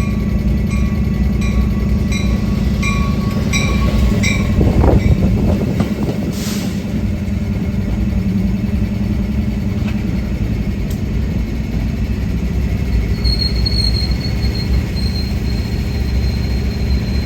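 A train passing close by, its rumble steady and loud. For the first few seconds a regular ringing sounds about every 0.7 s, then stops. In the second half a thin, high wheel squeal comes in.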